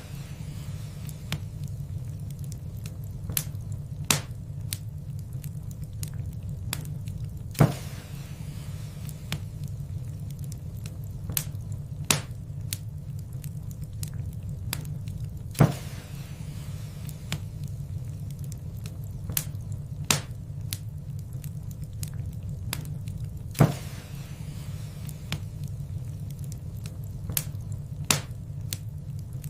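Wood fire crackling in a fireplace: a steady low rumble of burning with frequent small snaps and three louder pops about eight seconds apart.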